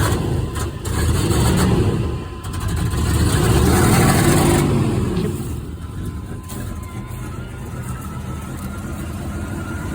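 Car engine revved twice, each time rising and falling in pitch, then running more steadily. It is the sound of an engine that the owner says badly needs a tune-up (plug wires, rotor, distributor cap), or has a carburetor or fuel supply fault.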